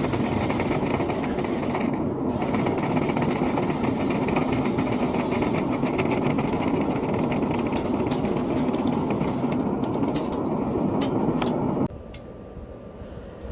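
A loud, steady machine noise with a rapid stream of small clicks and rattles in it, which cuts off sharply about twelve seconds in.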